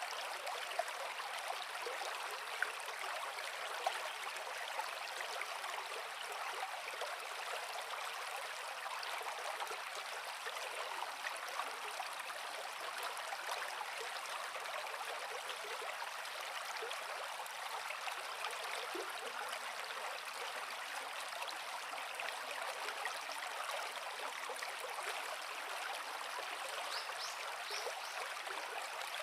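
Creek water flowing over rocks, a steady babbling rush with small splashes and gurgles.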